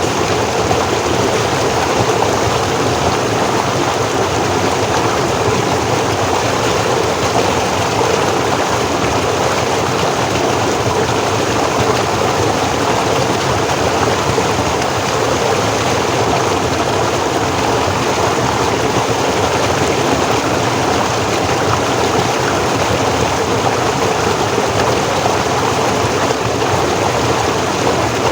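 Forest stream flowing and splashing over rocks: a steady, continuous rush of water.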